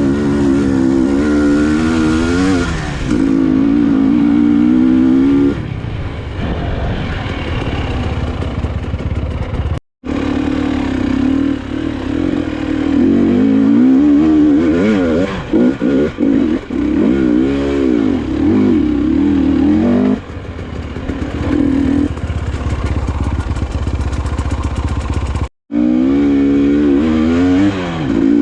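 Enduro motorcycle engine revving up and down over and over as it is ridden on a trail. The sound drops out abruptly for a split second twice, about ten seconds in and near the end.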